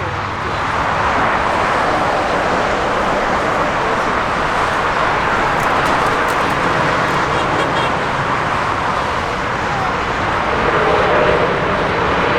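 Jet airliner engines giving off a loud, steady rushing roar.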